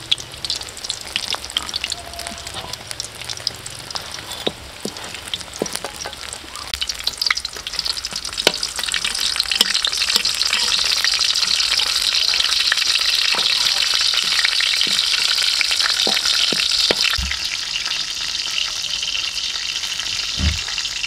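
Khmer chive rice cakes sizzling as they shallow-fry in oil in a metal wok, with scattered taps and scrapes of a metal spatula against the pan. The sizzle grows louder a little before halfway through.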